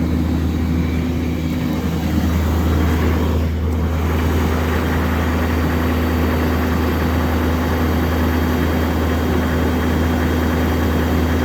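2005 Duramax LLY 6.6-litre V8 turbodiesel idling steadily just after a cold start, having sat about two weeks in below-freezing weather without its block heater plugged in.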